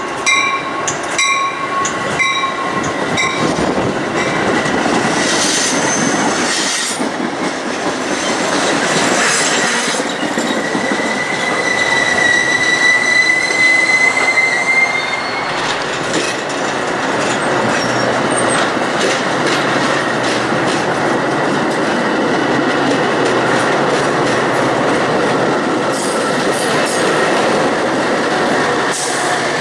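A train passes, its wheels clacking over the rail joints, with a squeal of wheels on rail from about eleven to fifteen seconds in. A regular ringing, about one strike every half second, stops about three seconds in.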